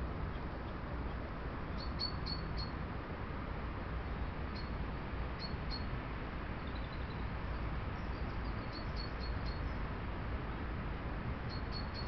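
Small bird giving short, high, faint chirps in quick groups of two to four, repeated several times, over a steady background hiss and low rumble.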